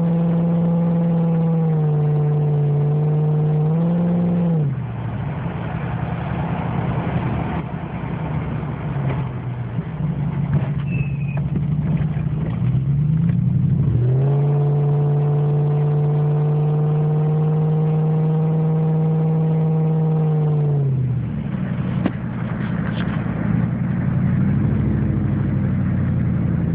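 2004 Dodge Dakota's 4.7-litre V8 running with the muffler and tailpipe removed, giving a loud open-exhaust drone while driving. It holds a steady pitch, drops off about four seconds in, rises again after about thirteen seconds into another long steady drone, and falls away about three-quarters of the way through.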